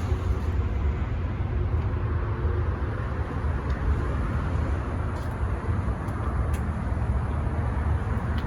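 Steady low rumble of outdoor background noise, with a faint steady hum that fades out within the first three seconds.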